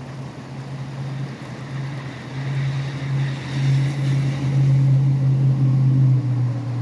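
A heavy vehicle going by on a rain-wet highway, heard over steady rain. A low engine hum swells in the middle and cuts off near the end, with a hiss of tyres on the wet road peaking part way through.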